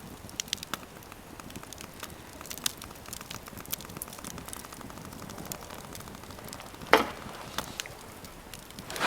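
Wood fire crackling with scattered small pops, and one louder sharp crack about seven seconds in.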